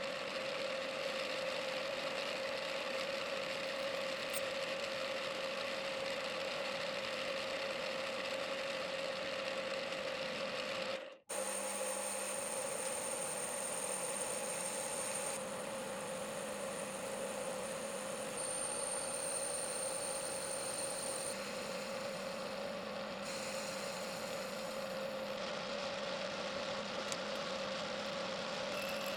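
Mini lathe running under nanoELS electronic-leadscrew G-code control, a steady motor whine with hiss as it machines a turbine nozzle part; the sound drops out for an instant about eleven seconds in, then carries on.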